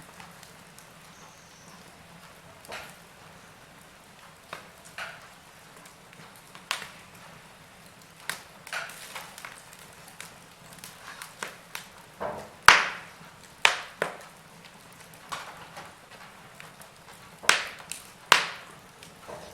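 Wood fire in a fireplace crackling, with irregular sharp pops and snaps, a few of them louder, over a faint steady hiss.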